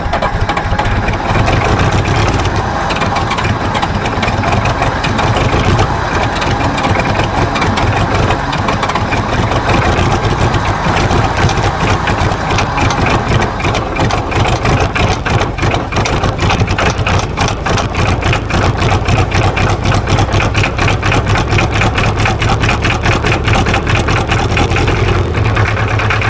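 John Deere 2010's four-cylinder diesel engine idling just after being started, running steadily with an even beat of firing pulses that grows more distinct about halfway through.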